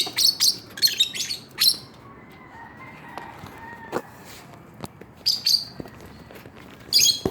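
Small caged parrots giving shrill, very high chirps in quick runs through the first two seconds, then again twice in the second half.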